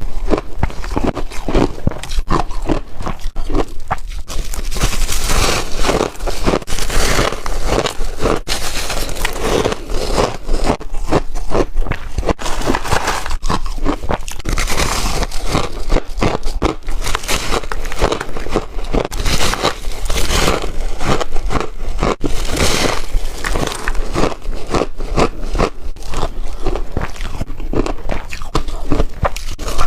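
Chunky ice being bitten, one crunching, cracking bite after another with no pause.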